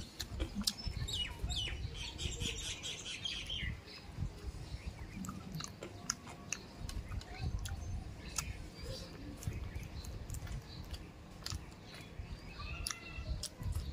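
Close eating sounds: chewing and lip smacking with wet mouth clicks as fish curry and rice are eaten by hand. A bird calls in the background from about one to four seconds in, and briefly again near the end.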